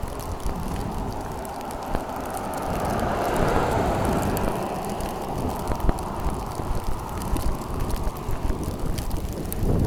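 A car passing on a wet, slushy road: tyre hiss swells to a peak about three to four seconds in, then fades. Wind rumbles on the microphone throughout.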